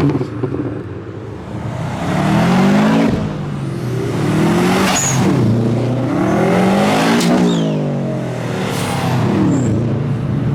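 Modified cars accelerating hard past one after another, their engines revving up and dropping back repeatedly through gear changes.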